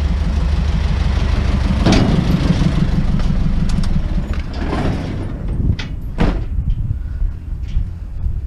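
Truck engine idling, then shut off about four seconds in. A few sharp knocks and clunks follow.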